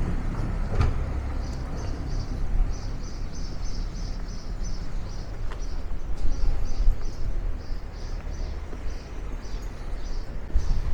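A bird chirping over and over in short high notes, about two or three a second, over a steady low outdoor rumble.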